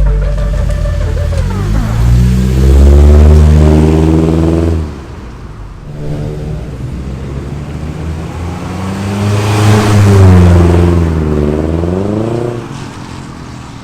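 Proton Inspira's four-cylinder engine revving through a new stainless-steel rear exhaust box, with a deep bass note. It climbs in pitch twice: the first climb runs for about three seconds and then falls away suddenly, and the second rises and wavers near the end.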